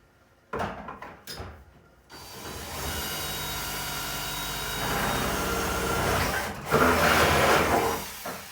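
Electric drill boring a hole through a refrigerator's cabinet wall: a few handling knocks, then the drill runs steadily for about six seconds, stopping briefly and running louder near the end.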